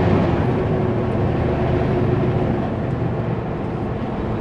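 Kenworth W900L semi truck driving: a steady low diesel engine drone mixed with road noise, with a faint steady tone that fades out a little past halfway.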